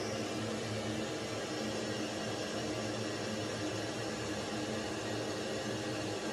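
A steady whir with hiss and a low hum, unchanging throughout, like a small motor running.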